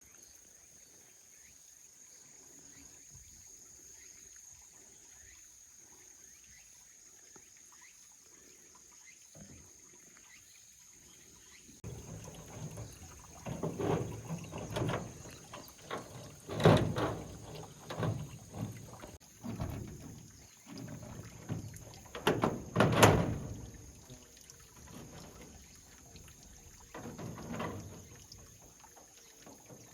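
Quiet background with a faint steady high whine, then irregular knocks, thuds and rustling handling noises from about twelve seconds in, with two sharper, louder knocks.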